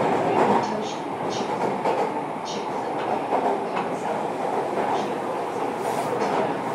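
JR Kyushu 305 series electric train running at speed, heard from inside its motor car: a steady rumble of wheels and running gear on the rails, with scattered short clicks over the track.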